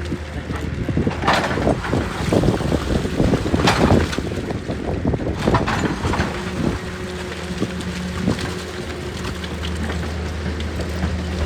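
Excavator's diesel engine running with a steady low drone, with a series of sharp knocks and scrapes in the first half, the loudest about a second and nearly four seconds in.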